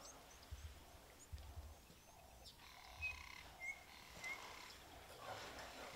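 Quiet bush ambience with a few faint, short bird chirps, three of them in quick succession around the middle.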